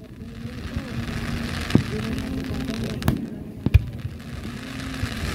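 Aerial fireworks shells bursting: three sharp bangs, the first a little under two seconds in and the last two about half a second apart. People talk in the background.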